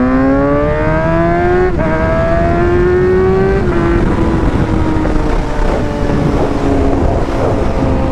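Motorcycle engine accelerating hard, its pitch climbing and dropping back at an upshift about two seconds in and again about three and a half seconds in, then holding a steadier pitch under wind rush on the helmet mic.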